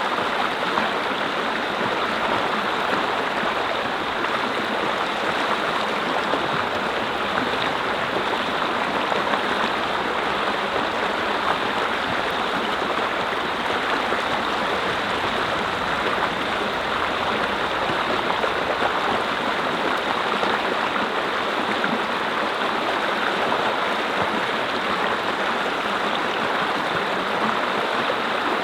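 Mountain brook flowing over rocks: a steady, even rush and babble of water with no break.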